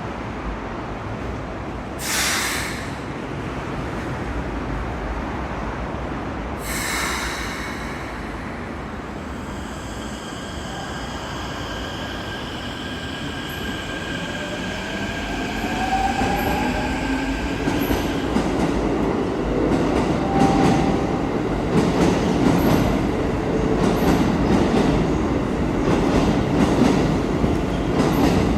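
Keikyu New 1000 series electric train pulling out of a station. Two short hisses come early, then the motors' inverter whine rises in pitch as it moves off. It grows into louder wheel rumble with regular clicking as the train gathers speed.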